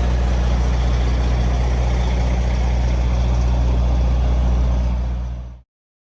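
Big-rig truck's diesel engine idling with a steady low drone, cutting off abruptly near the end.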